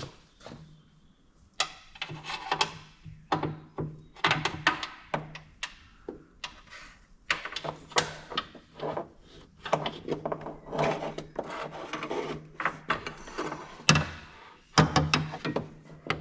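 Shifter cables being handled and routed through the car, with repeated knocks, taps and rubbing of the cables and their metal ends against the body and chassis. A faint low hum runs underneath.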